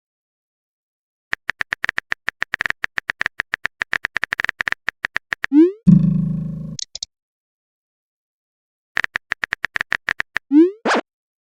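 Phone-chat sound effects: a rapid run of keyboard-tap clicks, a short rising pop about six seconds in, then a low buzzing tone lasting under a second. After a pause of about two seconds a second, shorter run of taps ends in another rising pop.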